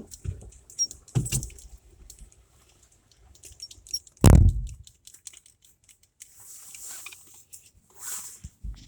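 Clicks, rustling and handling noise inside a car, with one loud, dull thump about four seconds in.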